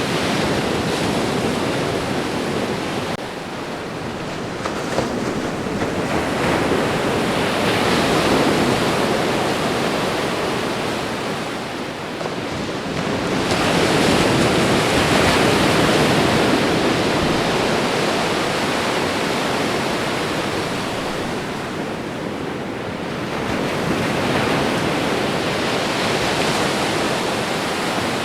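Ocean surf: waves breaking and washing on the shore as a steady rushing noise that swells and ebbs, with louder surges roughly every eight to ten seconds.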